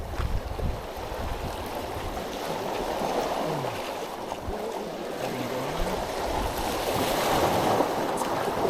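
Sea water washing and splashing over a rocky shoreline, a steady wash that grows louder toward the end.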